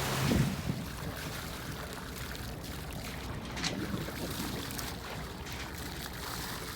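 Steady wash of water and wind noise aboard a sailboat.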